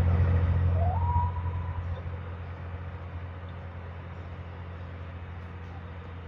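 Steady low rumble of a running vehicle, louder for the first couple of seconds and then settling lower, with a brief rising whistle-like tone about a second in.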